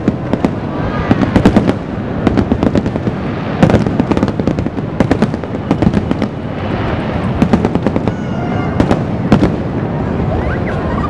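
A fireworks display: a dense, continuous barrage of aerial shells bursting, many sharp bangs and crackles overlapping with no pause.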